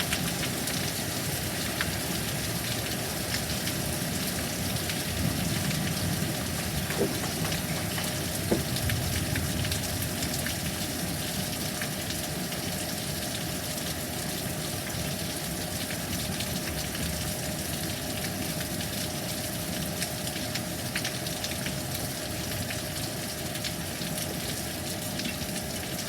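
Heavy thunderstorm rain falling steadily, with many sharp ticks of drops striking surfaces scattered throughout.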